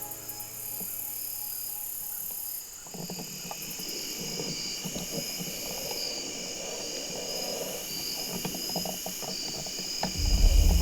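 Steady chorus of insects, crickets or katydids, trilling in the field. From about three seconds in, a soft rustling with small crackles joins it, and a loud deep sound comes in near the end.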